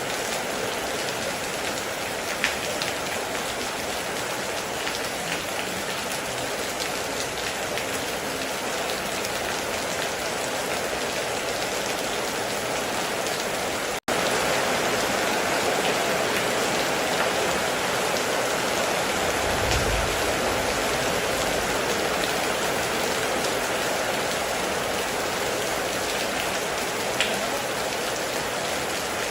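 Steady heavy rain, with a few sharper drop ticks standing out. About halfway through, the sound cuts out for an instant and comes back slightly louder, and a soft low rumble comes and goes about two-thirds of the way in.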